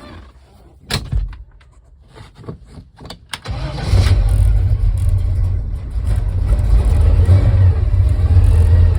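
1955 Chevrolet 150 wagon's engine on a cold start. A few clicks and brief cranking come first, then the engine catches about three and a half seconds in and keeps running steadily.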